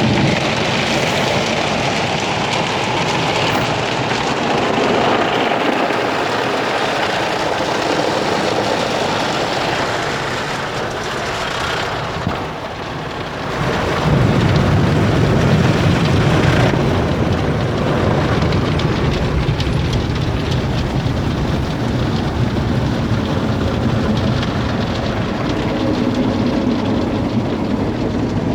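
Car wash water spray drumming steadily on the vehicle's body. It eases off briefly about twelve seconds in, then comes back with a heavier low rumble.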